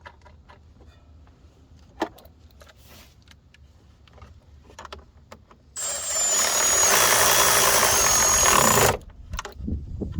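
Cordless power ratchet spinning a socket for about three seconds, starting about six seconds in, with a steady high motor whine. Before it come small clicks and one sharp knock from tools being handled.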